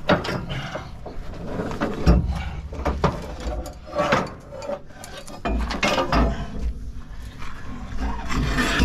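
Irregular metal clanking, knocking and scraping as a section of a combine harvester's concave is worked loose and pulled out, with a few heavier thumps.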